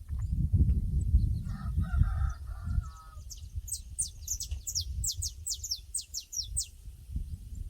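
Outdoor pasture ambience. A low rumble, heaviest in the first few seconds, and a drawn-out animal call in the distance about a second and a half in. Then a small bird sings a quick run of a dozen or so high, falling chirps.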